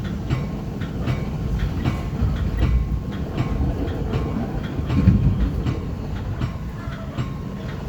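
Metra commuter train's wheels running over the rails, heard from inside the cab car: a steady low rumble with a regular clicking of wheels over rail joints, about two clicks a second.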